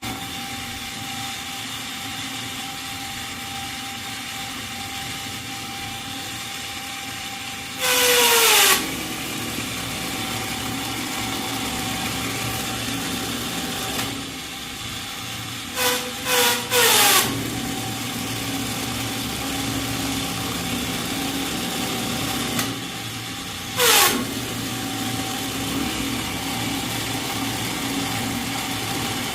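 A motor runs steadily with a constant hum, broken by short, loud hissing bursts whose pitch falls: one about 8 seconds in, three in quick succession around 16 to 17 seconds, and one more near 24 seconds.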